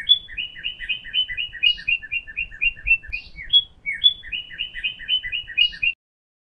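A bird singing two phrases. Each is a few higher notes followed by a quick, even run of short chirps, about five a second. The song stops abruptly about half a second before the end.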